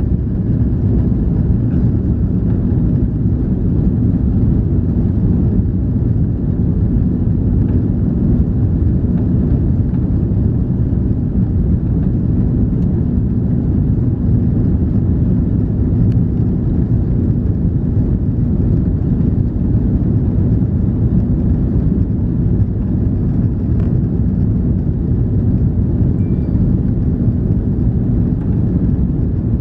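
Cabin noise inside an Airbus A340-300 under power: a steady low roar from its four CFM56 engines and the air rushing past the fuselage, with a faint engine hum running through it.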